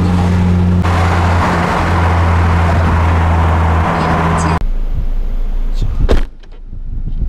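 Genesis Coupe 2.0's turbocharged four-cylinder engine running at a steady speed, heard from inside the cabin over road hiss. The engine sound drops away about four and a half seconds in, and a sharp knock follows about six seconds in.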